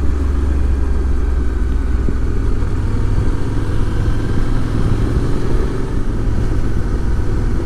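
Motorcycle engine running steadily while the bike is ridden, under a constant low rumble of wind and road noise on the microphone.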